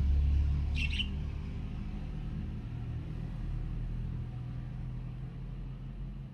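A budgerigar gives one short chirp about a second in, over a low rumble that slowly fades away.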